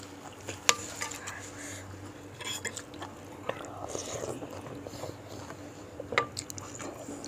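Metal spoon and fork clinking and scraping against a bowl of meatball soup while eating, with scattered sharp clinks; the loudest comes under a second in, another near the end.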